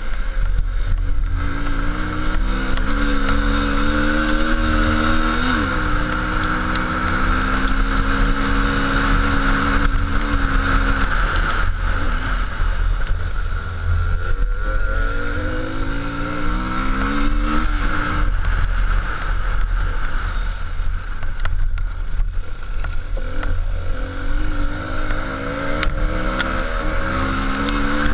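Motor vehicle driving on a road: engine running under a steady low road rumble, its pitch climbing and dropping back a few times as it speeds up and changes gear.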